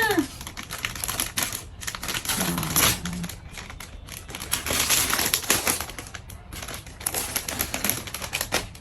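Plastic and foil packaging crinkling and rustling as a blind box is handled and opened, a dense run of quick little crackles.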